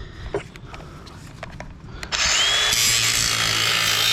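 A handheld power tool starts about two seconds in and runs steadily at full speed with a high whine, working on a scrap electric motor being torn down for its copper. Before it starts there are a few light clicks of handling.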